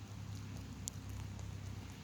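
Light rain sprinkling outdoors, a faint patter of drops over a steady low rumble, with one sharp tick a little under a second in.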